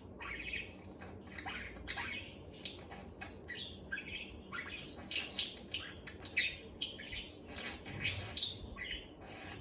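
Budgerigar chattering and warbling on its own: an unbroken run of short chirps, squawks and twittering notes, several a second.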